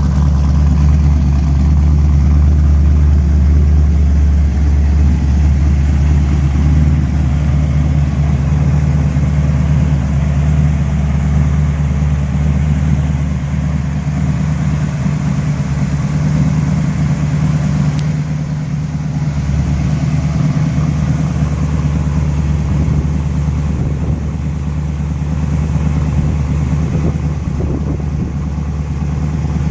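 The engine of a 1932 Ford truck idling steadily with a low, even hum.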